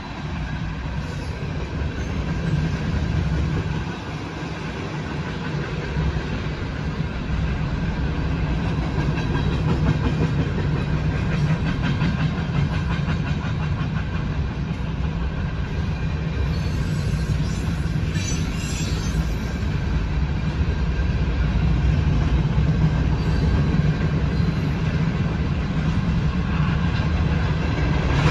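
Freight train cars rolling steadily through a grade crossing: a continuous rumble of steel wheels on rail, with clickety-clack as the trucks pass over rail joints.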